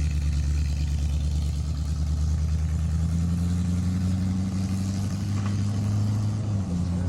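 A car engine running steadily at low revs with a deep, even rumble, its pitch shifting slightly near the end.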